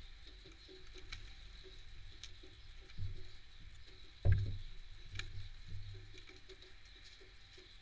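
Tits and sparrows pecking at sunflower seeds on a feeder: scattered sharp taps and dull knocks, with one heavier thump about four seconds in.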